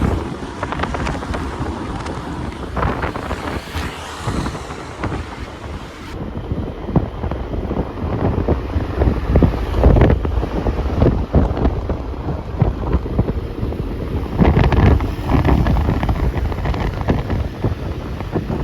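Wind buffeting the microphone over the rumble of a moving vehicle, in uneven gusts throughout.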